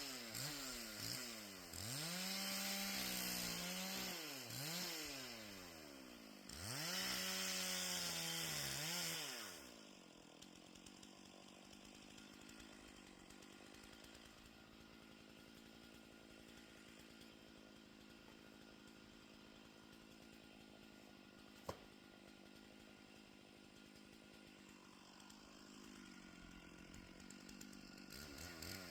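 Gas chainsaw revving and bogging as it cuts through a fallen tree, its pitch swooping up and down several times. About ten seconds in it drops to a quieter steady idle, then it revs up again near the end, with a single sharp click partway through the idle.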